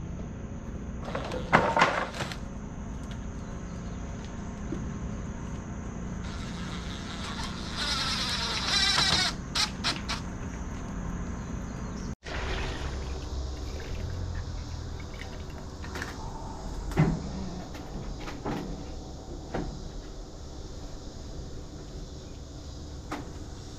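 Scattered knocks and taps of stone and tools during masonry work on a stone porch column. A brief whirring noise comes about seven to nine seconds in.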